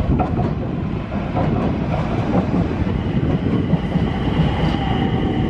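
SAT721-series electric train pulling in and braking as it passes close by, its wheels rumbling on the rails with a few sharp clicks over rail joints in the first second. About three seconds in, a whine sets in and drops slightly in pitch as the train slows.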